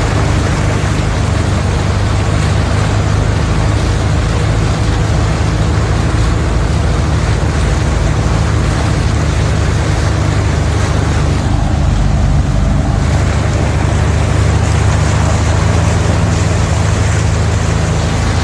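Land Rover engine running steadily under load while driving through floodwater, over a continuous rush and splash of water.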